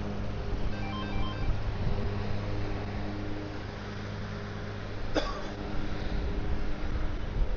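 Steady low mechanical hum, with a single sharp click about five seconds in.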